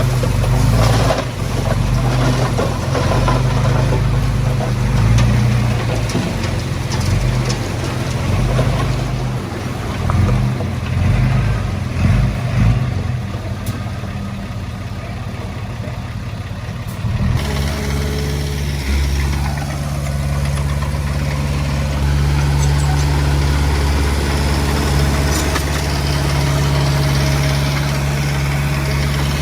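Diesel engine of heavy earthmoving machinery running, uneven and with scattered clanks at first. About two-thirds of the way in it switches abruptly to a steady, even drone.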